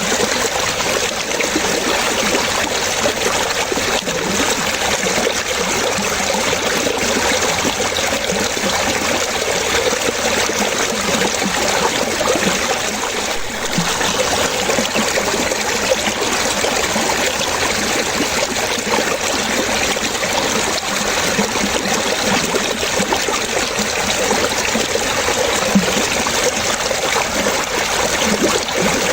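Running water splashing and trickling steadily, with small gurgles low down.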